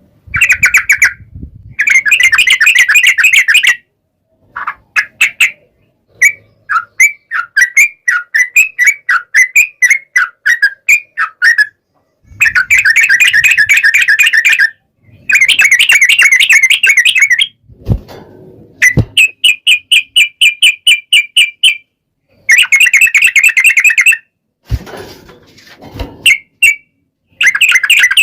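Yellow-vented bulbul (trucukan) singing in long, fast chattering trills, each burst lasting one to three seconds with short pauses between them, plus a stretch of slower, separate notes in the first half. A few sharp clicks sound in the second half.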